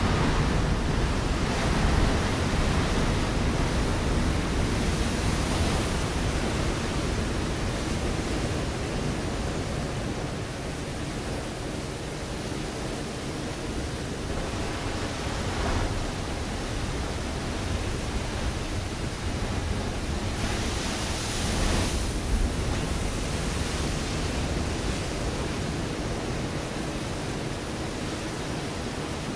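Ocean waves breaking on a rocky shore: a steady rushing wash of surf, swelling as a wave crashes right at the start and again about 20 seconds in.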